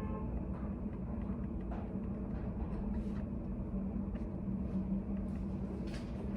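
Steady low hum of a study cafe's room background noise, with a few faint soft clicks.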